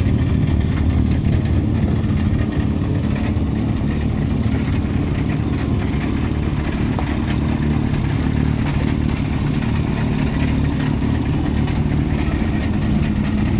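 Mk2 Ford Escort rally car's engine idling steadily.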